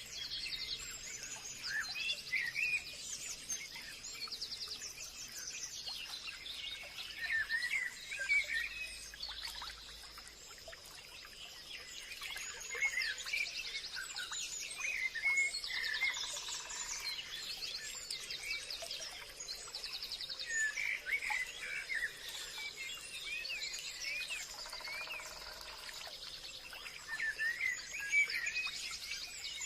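Forest ambience: many birds singing and calling at once in overlapping short chirps and trills, over a steady high-pitched drone.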